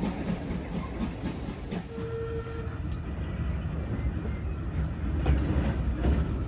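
Heritage steam-hauled train running along the line: a steady low rumble with wheels clicking over the rail joints. A brief steady tone sounds for about a second, about two seconds in.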